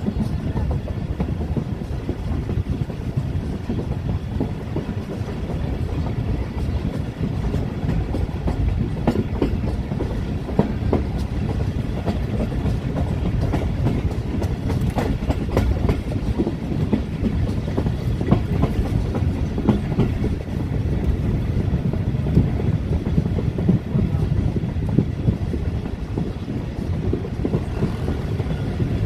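Awam Express passenger coach running along the track, heard from on board: a steady low rumble with repeated sharp clicks of the wheels over the rail joints, most frequent in the middle.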